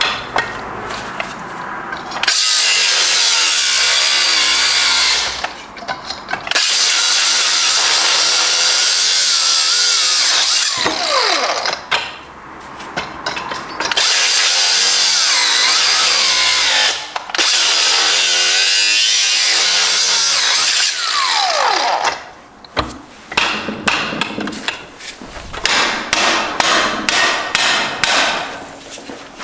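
Angle grinder cutting into a Subaru six-speed transmission, in four long cuts, each ending with the disc's whine falling as it spins down. Near the end, a quick run of sharp metal knocks.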